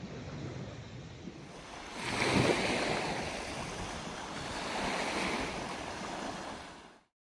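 Waves washing onto a Lake Superior shore, swelling about two seconds in and again near five seconds. The sound cuts off abruptly near the end.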